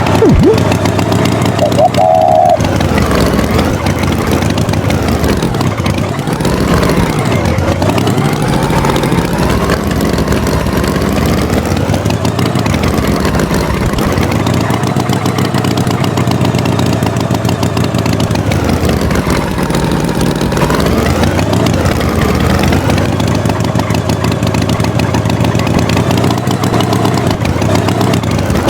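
Tractor engine running steadily, its pitch rising and falling several times as it revs up and down.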